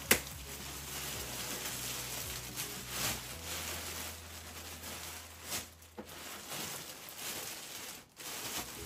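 Rustling and handling noise as plastic vacuum parts and packaging are moved about, with a sharp knock right at the start and a few smaller knocks later.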